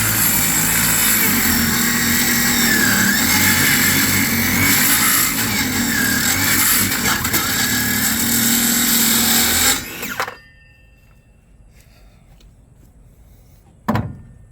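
Battery-powered saw cutting through a wooden board, running steadily for about ten seconds and then stopping abruptly. A single sharp knock follows near the end.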